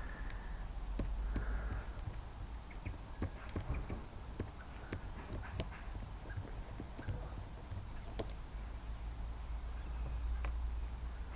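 Irregular small clicks and taps of a screwdriver and hands taking the screws out of a Honda CG125 carburettor body, over a steady low rumble.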